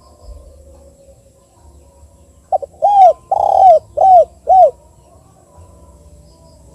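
A spotted dove cooing one phrase about two and a half seconds in: a short lead note, then four arched coos, the second the longest and loudest. This is the two-'kuk' type of call that is used as a lure to set other doves calling.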